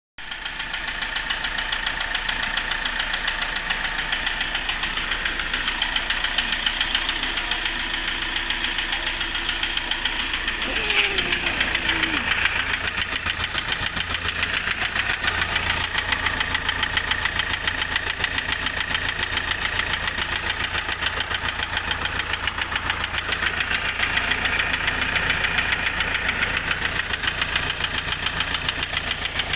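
Hyundai i20 engine running with a rapid, steady knocking.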